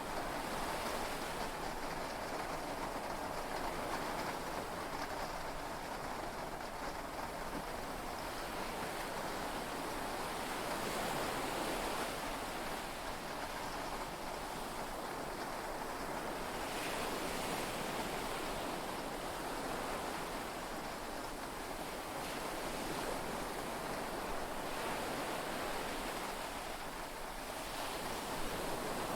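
Heavy rain and sea waves heard from inside a yacht cabin: a steady wash of noise that swells and eases gently every few seconds.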